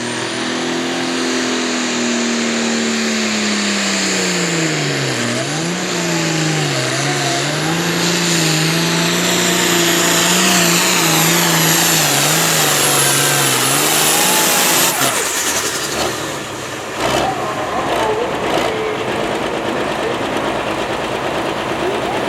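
Turbocharged diesel pulling tractor's engine running wide open under heavy load. Its pitch sinks and wavers as the engine lugs down, with a high turbo whistle above it. About fifteen seconds in the throttle shuts off and the engine drops away, with a few sharp knocks after.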